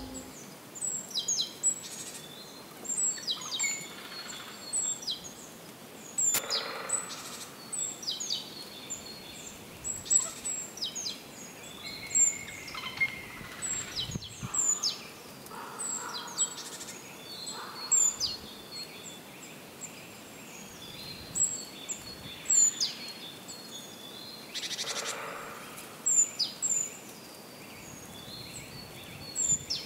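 Wild birds chirping and singing: many short, high calls in quick succession over a soft, steady background hiss.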